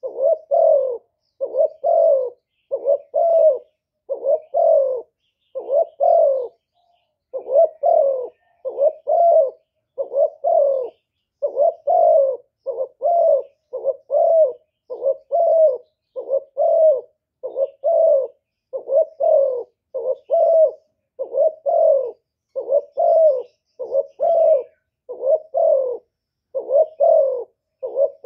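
Spotted dove cooing: a long run of short, evenly paced coos, about two a second, with one brief pause about six seconds in.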